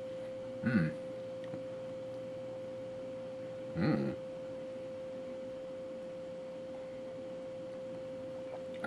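A steady, even pure tone, like an electrical whine in the recording, with two brief voiced murmurs from a person, about a second in and about four seconds in.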